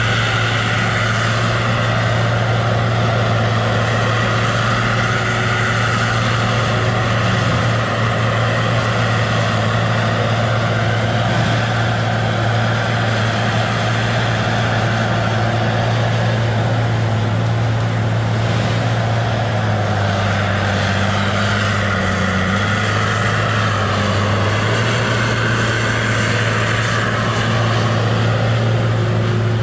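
Diesel engine of a Tigercat feller buncher running steadily under load, with a wavering hydraulic whine; the engine note dips and shifts for a few seconds about two-thirds of the way through.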